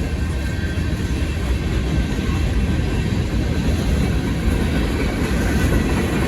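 Union Pacific manifest freight train rolling past on the rails: a steady, loud rumble of wheels and cars.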